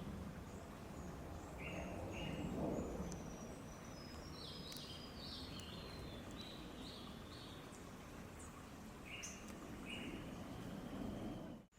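Several wild birds singing: pairs of short chirps twice, clusters of quick higher notes, and thin, high, drawn-out whistles that slide slightly downward in the middle. Under them is a faint low rumble of outdoor background noise.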